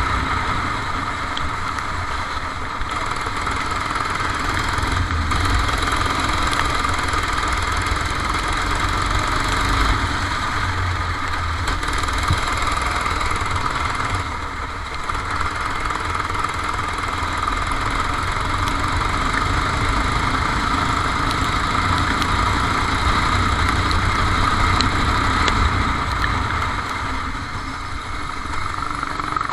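Kart engine running continuously during a race, heard onboard, with a steady low rumble underneath. Its level drops briefly twice, about halfway through and near the end, then picks up again.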